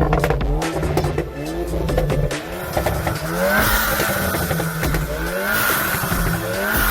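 Tuned car's engine revving hard in repeated rising sweeps, with sharp exhaust pops and crackles in the first second. From about three seconds in, the car pulls away under steady acceleration while a high wavering squeal and hiss join.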